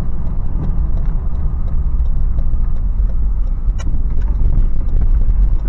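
Toyota 4Runner's 4.0-litre V6 and tyres giving a steady low rumble heard from inside the cabin while driving slowly, with a few faint clicks.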